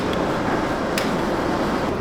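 Steady machine hum of a busy kitchen, like a ventilation fan, with one sharp click about a second in.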